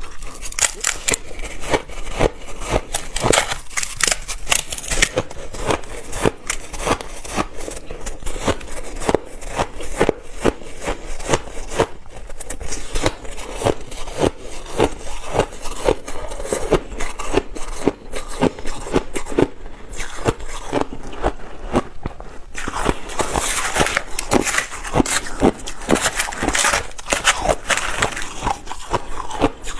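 Close-up crunching and chewing of ice: a dense run of crisp cracks and crackles, several a second, with louder stretches of crunching near the start and again in the last quarter.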